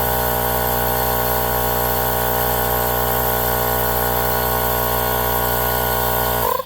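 Small cordless battery-powered tire inflator running steadily, pumping up a mini bike tire to seat its beads. It cuts off suddenly near the end.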